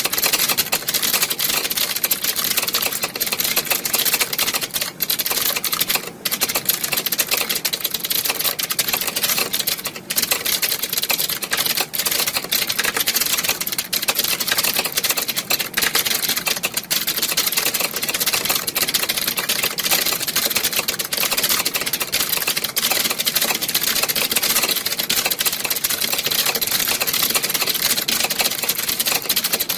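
Many computer keyboards typed on at once, a dense, continuous clatter of overlapping key clicks as in a typing exam hall.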